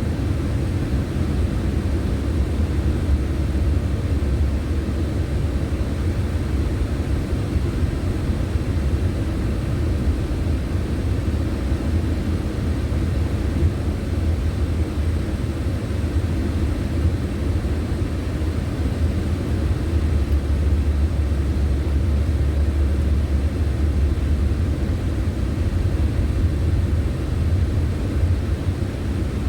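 Steady low rumble of a car being driven: road and engine noise that holds even throughout.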